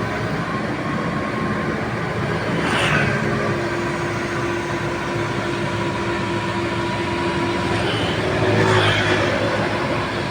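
An amphibious excavator's diesel engine runs steadily, with two brief rushes of hissing noise about three and nine seconds in.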